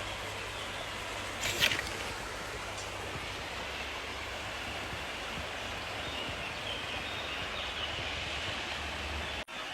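Steady hiss of wind and road noise while riding a bicycle outdoors, with one brief louder noise about one and a half seconds in.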